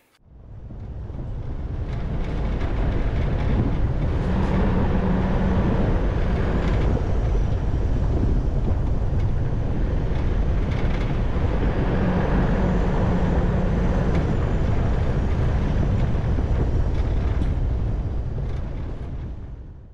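Toyota Hilux 4WD on the move: steady road and engine noise, heavy in the low end, with a low hum that swells twice.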